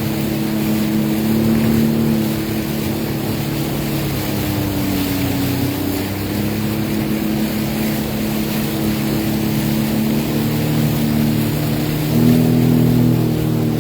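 Sea-Doo Fish Pro personal watercraft engine running under way, a steady drone over the rush of water. The engine eases off briefly about midway, then pulls harder and louder near the end.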